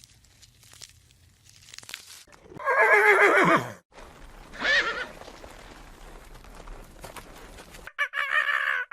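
Horse whinnying: a loud, quavering call that falls in pitch at its end about three seconds in, a shorter call about a second later, and another whinny near the end.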